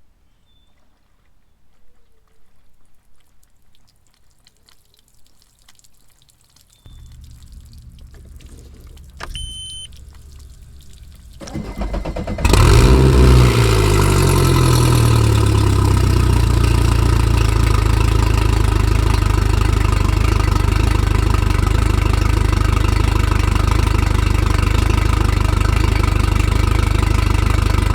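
Boat engine started on flushing muffs for its first run of the year: a low hum comes on, a short beep sounds, then the engine cranks, catches with a flare of revs that falls away, and settles into a steady idle.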